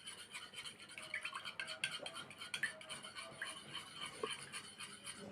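Egg being beaten into buttermilk in a bowl: light, quick scraping and clicking of the mixing utensil.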